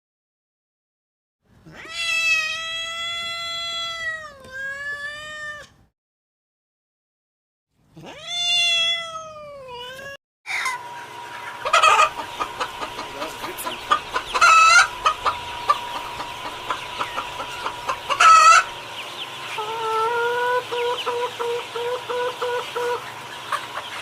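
A rooster crowing twice, each crow a long drawn-out call of a couple of seconds. From about ten seconds in, a flock of chickens clucks steadily, with a few louder calls standing out.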